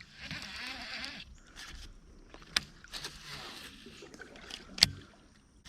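Water swishing around a kayak, with two sharp knocks a couple of seconds apart; the second knock is the loudest.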